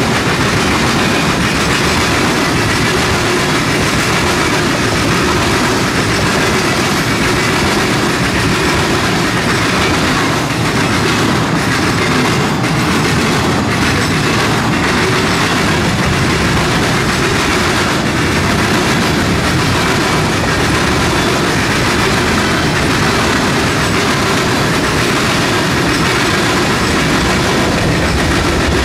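Freight train cars rolling past: a loud, steady rumble of steel wheels on the rails, with a few sharper clicks around the middle.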